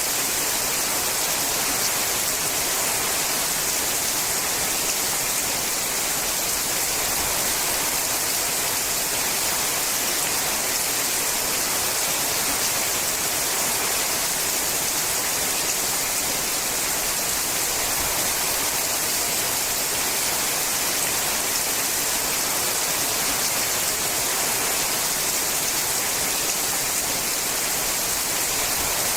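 Steady rain falling on a sheet-metal roof, an even dense patter that does not change.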